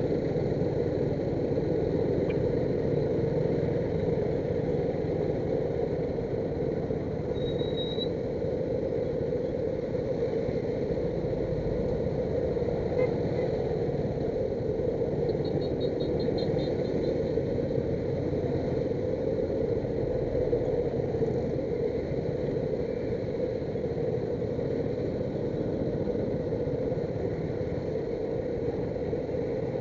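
Steady rumble of motor traffic: engines and road noise. There is a brief high squeak about seven seconds in and a short burst of rapid high chirps a little past the middle.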